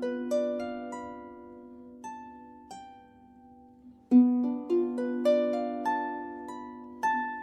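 Harp playing a slow melody of plucked notes that ring and fade over held low notes. The playing thins out and grows quiet in the middle, then a new, louder phrase starts with a strong low note about four seconds in.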